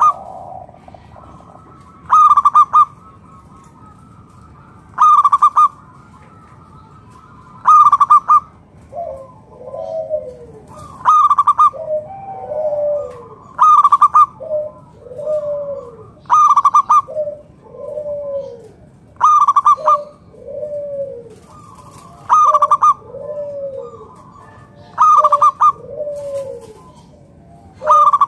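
Zebra doves (perkutut) cooing. A loud, rapid staccato coo phrase repeats about every three seconds, and from about nine seconds in a softer, lower, falling coo sounds between the phrases.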